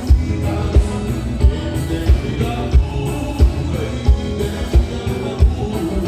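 Live gaúcho dance band playing, a kick drum marking a steady beat about three times every two seconds.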